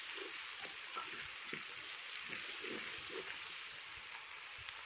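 Onions and ginger-garlic paste sizzling steadily in hot oil, with light scrapes and taps of a wooden spoon stirring them in an aluminium pot.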